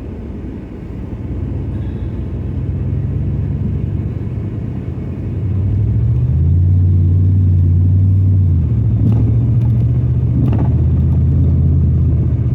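Dodge Ram 1500 pickup engine running under way, a low steady drone. It grows louder twice, about a tenth of the way in and again about halfway, and its note changes about two-thirds of the way through.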